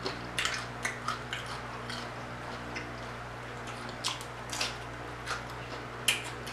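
A person chewing a mini sweet pepper close to the microphone, with about half a dozen short mouth clicks and smacks scattered through.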